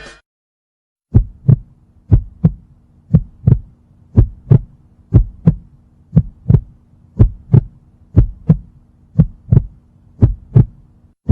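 Heartbeat sound effect: steady double thumps, lub-dub, about one beat a second, starting about a second in, over a faint low hum.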